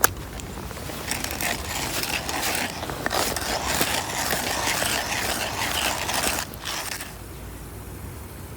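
A run of rough scraping and rattling, many short strokes close together, starting about a second in and stopping about seven seconds in.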